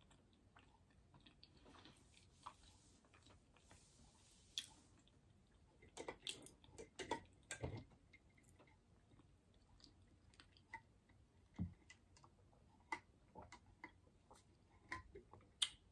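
Faint, close-up mouth sounds of someone chewing food: scattered soft clicks and smacks, busiest a few seconds in, with quiet stretches between.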